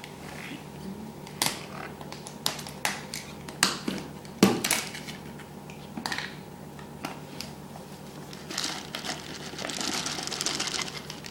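Irregular light taps and clicks, as a baby's hands pat and fumble at a surface while trying to pick up rice puffs, with a stretch of rustling about nine seconds in.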